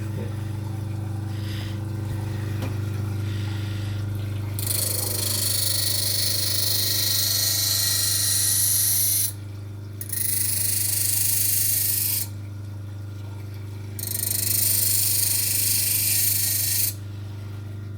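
Electric grinder running with a steady hum while a knife blade is pressed to it in three passes of a few seconds each, each pass a loud high grinding hiss.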